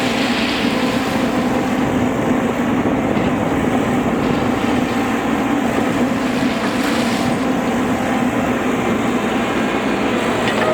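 Heavy railway track-repair machinery running steadily: a continuous mechanical drone with a strong low hum.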